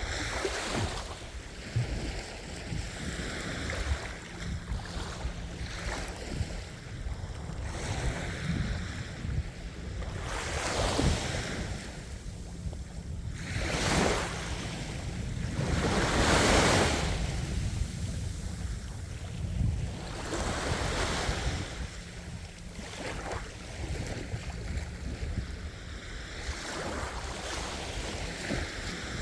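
Ocean waves washing onto a shore, swelling and breaking every few seconds, with a loud break about sixteen seconds in. Wind rumbles on the microphone beneath the surf.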